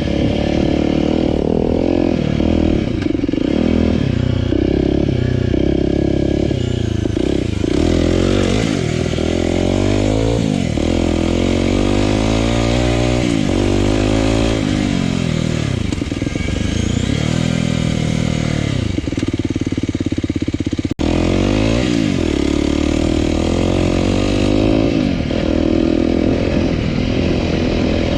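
Single-cylinder four-stroke enduro motorcycle engine being ridden hard. Its pitch repeatedly climbs under throttle and falls back as it shifts and rolls off. A momentary drop-out comes about three-quarters of the way through.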